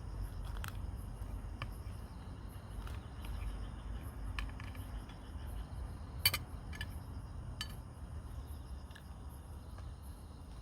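Insects chirping steadily over a low outdoor rumble, with a few scattered sharp clicks and taps, the loudest about six seconds in.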